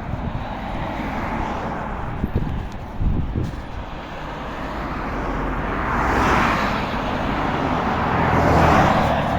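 Road traffic heard from a moving bicycle: a steady rumble and hiss, with two motor vehicles swelling past, one about two-thirds of the way in and another near the end. A couple of sharp knocks come two to three seconds in.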